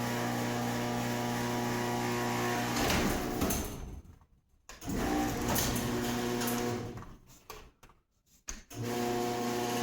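A steady electrical hum that cuts out twice to near silence, around four seconds in and again near eight seconds, with a few clicks where it stops and starts.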